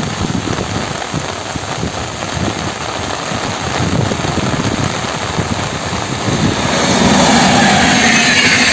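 Heavy rain falling steadily. About seven seconds in the sound grows louder and a low steady hum joins it as a train draws near.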